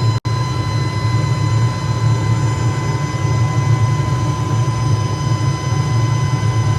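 Factory machinery running with a steady, loud low drone and a constant high whine over it. The sound cuts out for an instant just after the start, then carries on unchanged.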